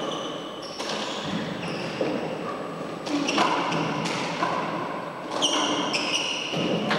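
Handball rally in a four-wall court: the rubber handball smacks against the walls and is struck by hand, a sharp hit about every second, with echo off the court walls and short high squeaks in between.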